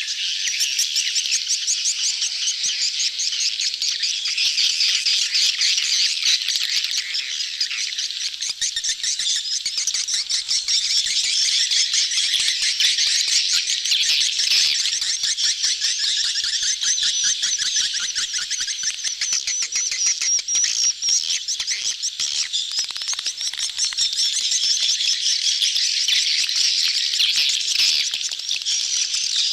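A dense colony of swiftlets twittering, a continuous mass of rapid high chirps with no pauses. This is the crowded, mating-season colony chatter used as a swiftlet lure call.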